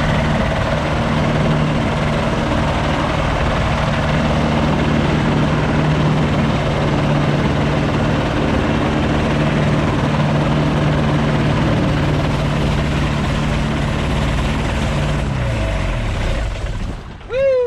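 Polaris FIB flying inflatable boat's propeller engine running steadily in flight, then throttled back about fifteen seconds in, its pitch sliding down as it slows for the landing. A brief loud falling squeal comes right at the end.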